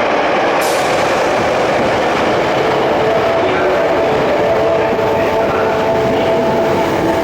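Sakaisuji Line subway train moving along the platform of an underground station: a loud, steady running noise with a faint whine made of several steady tones, some drifting slowly in pitch in the second half.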